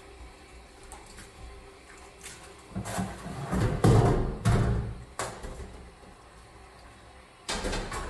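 Scrubbing and handling noises from cleaning a dirty oven and stovetop: a loud stretch of rubbing and knocking about three seconds in that lasts some two seconds, and another burst starting near the end.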